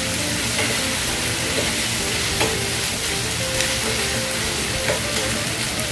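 Chicken pieces and diced carrots sizzling steadily in a frying pan as they are stirred with a spoon, with a few short scrapes of the spoon against the pan.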